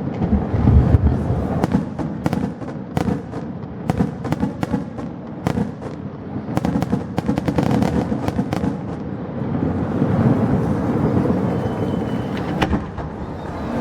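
Fireworks going off in quick succession: a dense run of bangs and crackles over a steady rumble, heaviest about a second in.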